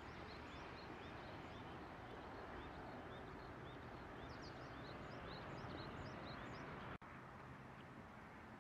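Many small birds chirping in quick, short high notes over a steady outdoor hiss. The sound breaks off abruptly about seven seconds in and resumes as mostly hiss with few chirps.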